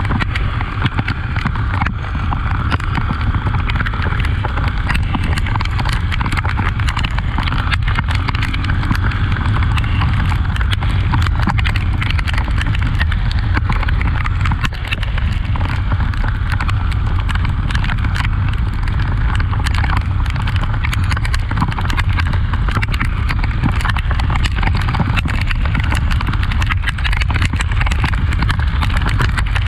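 Honda XRE 300 single-cylinder motorcycle riding off-road: a steady deep engine drone with many sharp clicks and knocks over it throughout.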